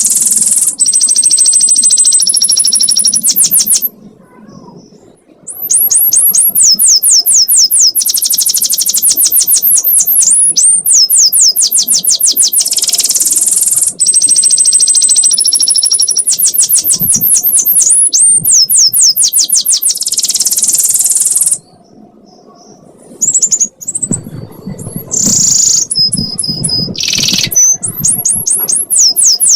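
Domestic canary singing a long, fast 'ngekek' song of rapid high trills and repeated chirps, broken by two short pauses.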